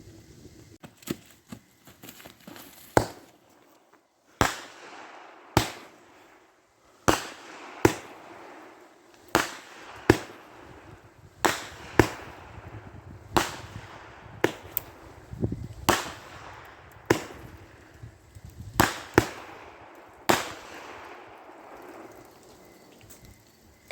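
Fireworks going off: a series of loud sharp bangs, about one every second or so at an uneven pace, each trailing off in a short echo.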